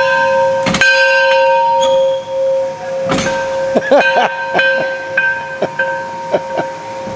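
Big old steamboat bell rung by flipping its handle: it is struck about three times, and each strike rings on with a steady tone that slowly fades. A few light knocks sound after the last strike.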